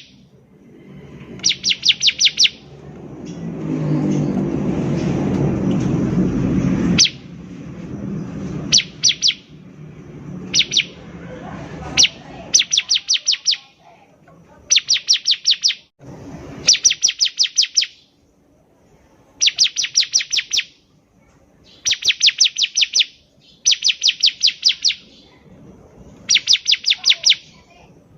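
Bar-winged prinia (ciblek) singing, a bright burst of rapid, evenly repeated high chips about a second long, repeated every two to three seconds. A low rushing noise swells under the first bursts and cuts off suddenly about seven seconds in.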